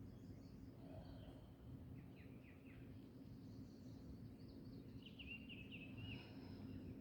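Faint birdsong: small birds chirping in short runs of quick notes, the clearest run about five seconds in, over a low steady background hum.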